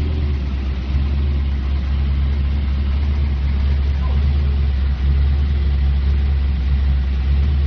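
Ultra4 rock crawler's engine idling steadily, with a deep, even low rumble.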